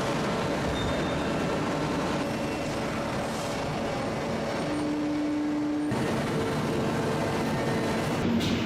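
Steady heavy-industrial machinery noise in a forge shop. A short steady hum comes in just before five seconds, and the noise changes abruptly about six seconds in.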